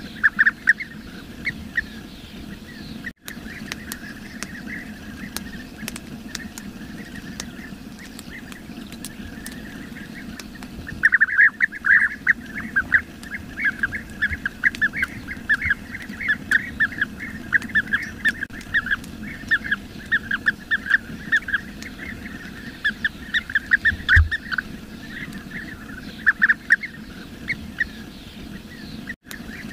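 Bee-eaters calling: quick, rolling chirps repeated in short runs, sparse at first and dense through the middle stretch, over a steady low background hiss. The sound cuts out for an instant twice.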